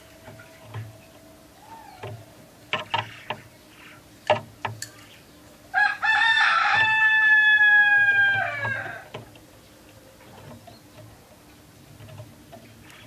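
A rooster crowing once, a single drawn-out call of about three seconds that drops in pitch as it ends. A few sharp clicks come shortly before it.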